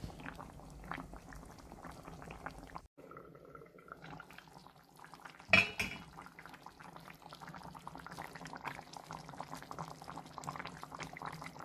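A pot of stew bubbling at a simmer, a steady patter of small pops. The sound cuts out briefly about three seconds in, and there is one short, louder knock at about five and a half seconds.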